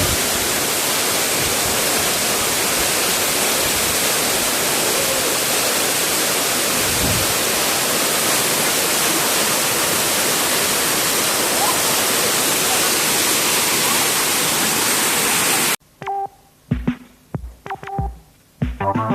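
Steady, loud roar of a waterfall. It cuts off abruptly near the end, followed by a few short knocks and brief tones.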